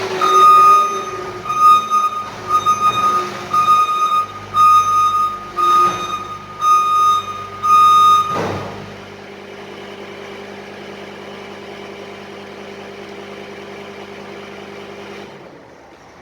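Vehicle backup alarm beeping about once a second for some eight seconds over a running diesel engine, which then drones on steadily alone and cuts off near the end.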